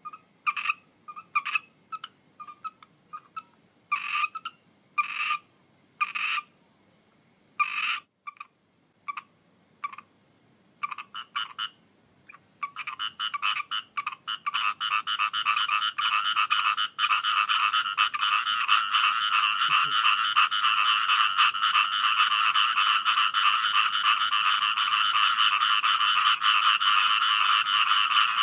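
Frogs calling: separate short calls for about the first dozen seconds, then a dense, continuous chorus of rapid calls from about halfway through.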